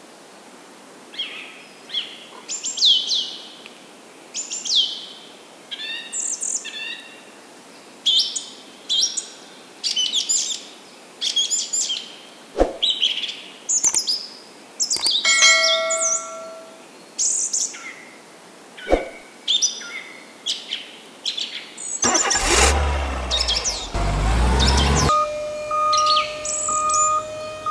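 Small birds chirping over and over in short, high, falling notes, with a couple of sharp knocks. Near the end a louder rumbling noise lasts a few seconds, then a steady electronic tone sounds.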